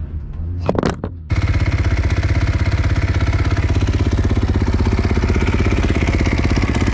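Husqvarna motocross bike engine running loud and steady, with a fast even firing pulse. It cuts in abruptly about a second in, after a brief clatter.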